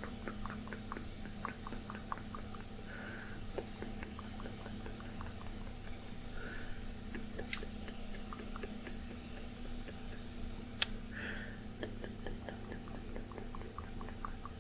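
Soft, irregular tapping and rustling of a cloth dabbing and wiping close to the microphone, with a couple of sharper clicks. Under it runs the steady hum of an air conditioner.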